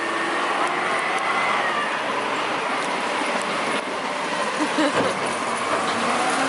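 Garbage truck running, a steady engine and mechanical noise.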